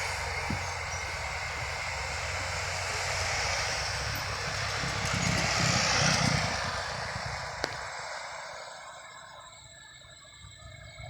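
A heavy truck driving past under hard throttle: its engine and tyre noise swell to a peak about six seconds in, then fade as it moves away. A single sharp click comes near the end of the pass.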